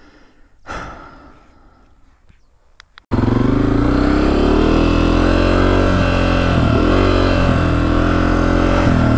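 About three seconds in, a Honda CRF250F dirt bike's engine cuts in suddenly and keeps running, its pitch rising and falling as the throttle is worked. Before that it is quiet, with one brief rustle.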